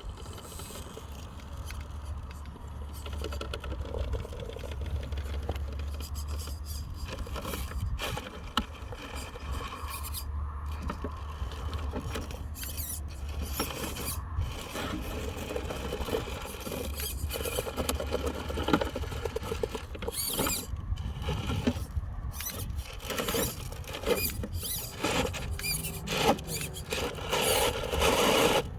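Radio-controlled truck driving over rough ground: the motor and gears whine in spurts, over many small clicks, knocks and scrapes.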